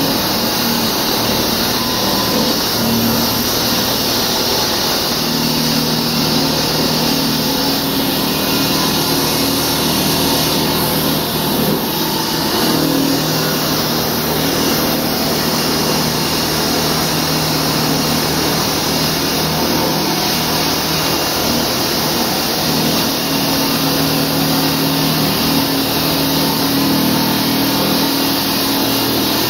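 Concrete-cutting saw with a diamond blade running steadily, a loud continuous grinding noise over a low motor hum.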